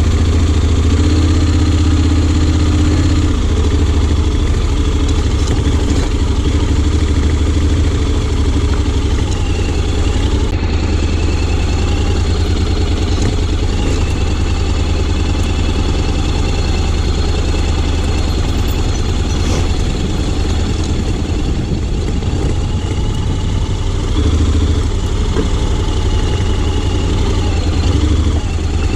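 Honda X-ADV 750's parallel-twin engine running steadily at low revs, its pitch rising and falling gently a few times.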